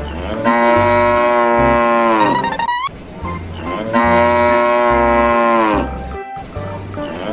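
Cow mooing: two long moos of about two seconds each, the first sliding upward at its end, over a music track with a steady low bass beat.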